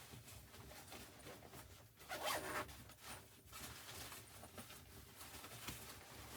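Faint handling noise of gear or clothing, with a zip-like rasp about two seconds in.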